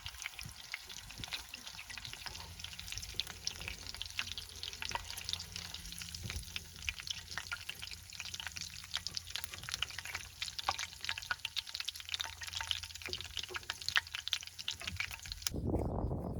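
Food frying in a hot pan: a steady sizzle with many small crackling pops. It cuts off abruptly about a second before the end, giving way to a different, lower rushing noise.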